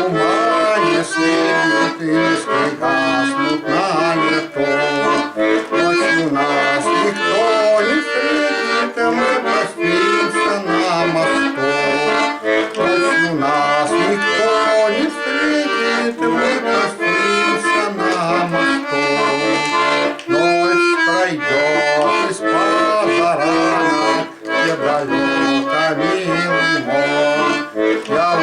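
Bayan (Russian button accordion) playing a solo instrumental passage: a melody line over bass and chord notes that change in step beneath it, with no singing.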